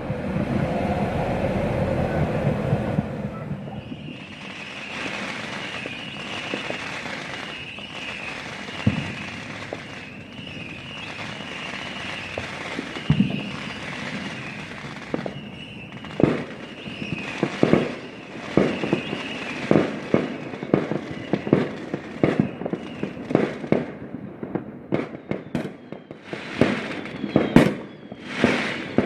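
Fireworks going off at a distance: a loud low rush for the first few seconds, then a steady high hiss, and from about halfway on a run of sharp bangs coming faster toward the end.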